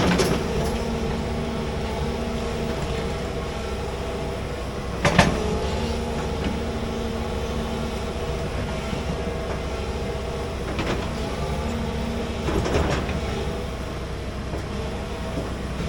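Large excavator's diesel engine running steadily while digging, with a few sharp clanks or knocks: one near the start, a louder one about five seconds in, and two more later on.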